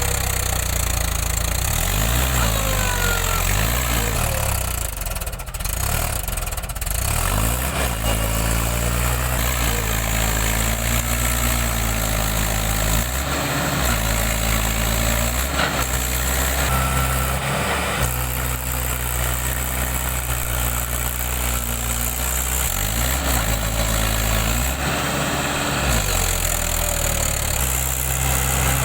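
Mahindra 575 DI tractor's four-cylinder diesel engine labouring under heavy load as the tractor struggles through deep mud. The revs rise and fall several times, with steady running in between.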